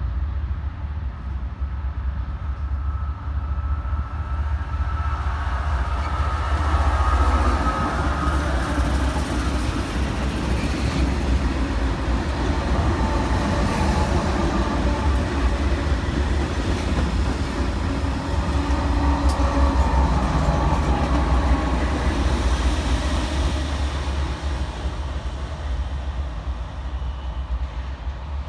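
Diesel locomotives rolling along the track: a steady low engine rumble with wheel and rail noise, swelling about seven seconds in and again around twenty seconds.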